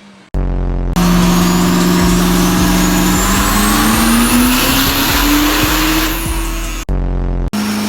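Diesel truck engine on a chassis dyno under a full-throttle pull, loud, with its pitch climbing steadily as the revs rise and a high whine rising along with it. The sound cuts abruptly between separate pulls a few times.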